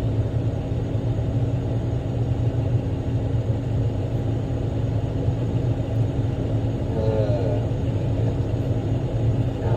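Diesel engine of a big off-road rock truck running steadily while driving: a constant low drone with a steady hum above it. A brief higher, bending sound comes about seven seconds in.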